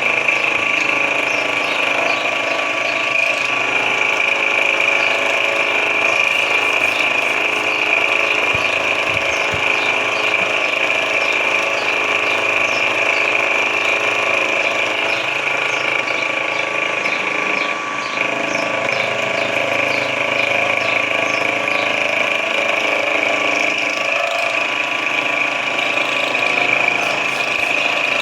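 SX2 mini mill-drill running steadily, its motor and gear train giving a constant high whine, with faint irregular ticking over it.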